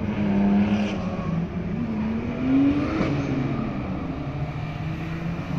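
BMW E82 drift car's M54B30 straight-six engine revving hard while the car slides through a drift. The engine note wavers, climbs about two and a half seconds in, and eases back just after three seconds.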